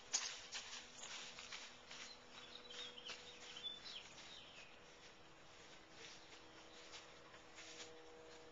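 Faint outdoor ambience with a few short bird chirps around the middle, over scattered light clicks and a faint steady hum.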